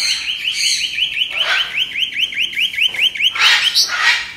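Caged birds calling: a fast, even series of chirps, about seven a second, with two louder calls over it, one about a second and a half in and one near the end, where the chirping stops.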